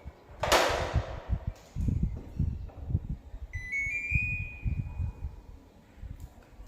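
A sharp hiss about half a second in, then scattered low bumps and rumbles of handling. Midway comes an electronic beep tone lasting about a second and a half, stepping up slightly in pitch.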